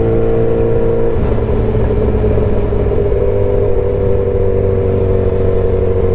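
2003 Yamaha R1's inline-four engine with an aftermarket short exhaust, loud, running steadily under way. Its pitch shifts slightly about a second in, then holds.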